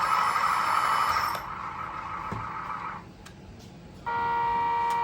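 A motor whirring, which stops about a second and a half in, then a steady electronic beep lasting about a second near the end.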